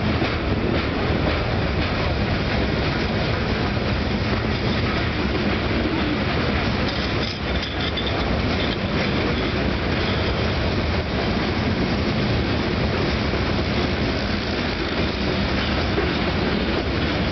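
A freight train's loaded stone hopper cars rolling past close by: a steady rumble and rattle of steel wheels on the rails, with the click of rail joints.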